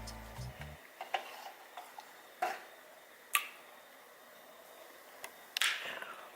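Music fading out at the start, then a handful of light, scattered clicks and clinks of kitchenware such as dishes and cutlery.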